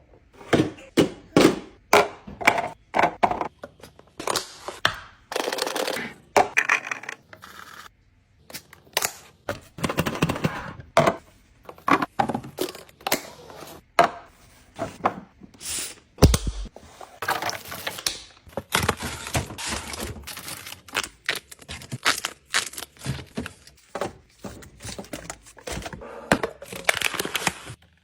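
An irregular series of clicks, knocks and thunks, with stretches of rustling: containers, lids and food packaging being handled and set down while a fridge is restocked.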